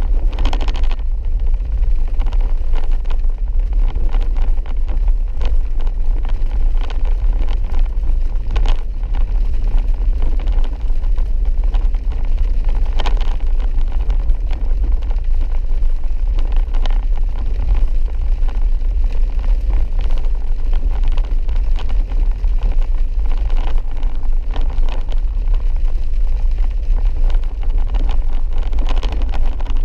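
A vehicle driving on a rough, wet dirt road: a steady low engine and tyre rumble, with a few brief knocks and jolts from the rough surface.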